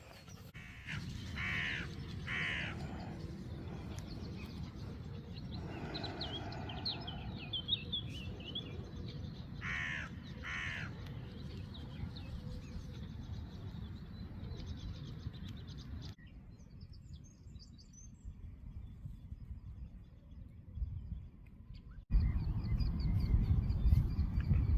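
A crow cawing, a few harsh calls in two groups, with smaller birds chirping between them over a steady low outdoor rumble. Near the end a louder low rumble starts abruptly.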